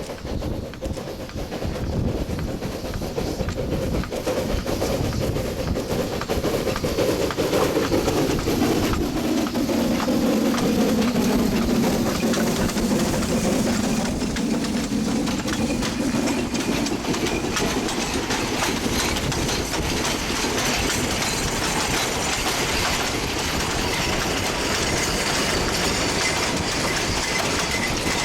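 Coal train hauled by a narrow-gauge C2 steam locomotive running past, its wagons rolling and clattering over the rail joints. A low hum dips in pitch and rises again in the middle, and the sound grows louder about two seconds in and then holds steady.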